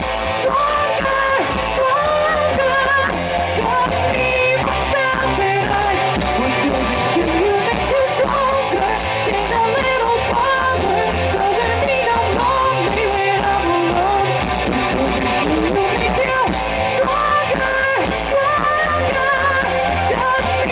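Live pop-rock band playing over a steady drum beat, with guitar and a wavering melodic lead.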